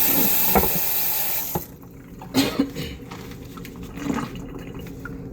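Running water that stops abruptly a little under two seconds in, followed by a few light knocks and clicks.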